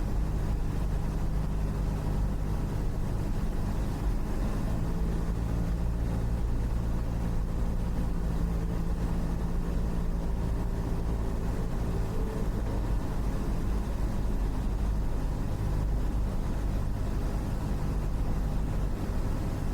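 Cessna 172's piston engine and propeller droning steadily in the cabin, with a slight shift in its tones about four seconds in.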